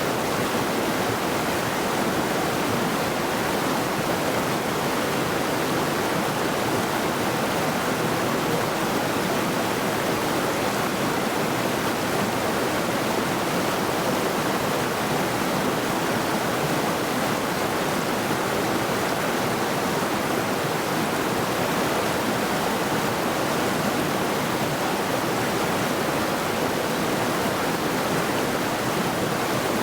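Mountain river rushing steadily over rocks, an even, unbroken roar of flowing water.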